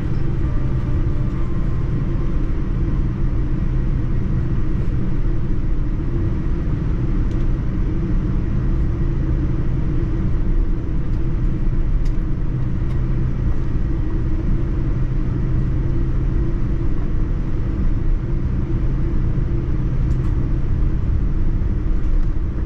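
Steady low rumble of a Boeing 787-9 airliner cabin, constant in level, with a few faint ticks now and then.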